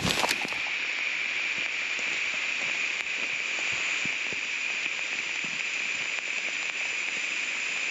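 Heavy rain falling steadily, an even hiss that holds at one level.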